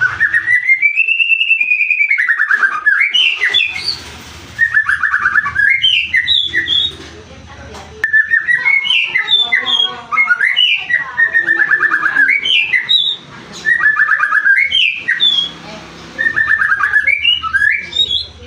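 White-rumped shama (murai batu) singing loudly in repeated phrases of a few seconds each, separated by short pauses. The phrases mix clear whistled glides with fast rattling trills.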